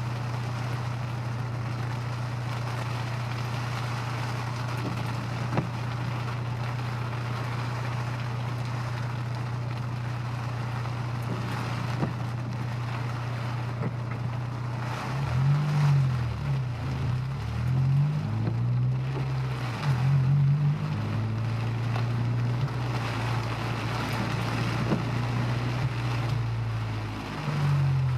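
Honda S2000's four-cylinder engine heard from inside the car, over a steady hiss. It holds a steady note at first, then about halfway through its pitch climbs and drops several times as it accelerates through gear changes.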